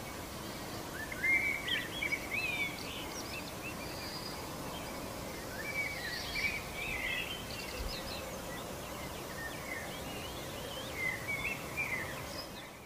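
Small birds chirping in three spells of quick twittering calls, over a steady bed of outdoor background noise.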